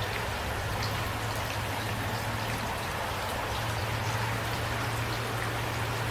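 Steady light rain falling, an even hiss with scattered small drop ticks, over a low steady hum.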